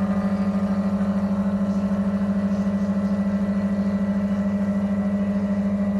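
Milesto EM40 dual boiler espresso machine's pump running with a steady hum during extraction.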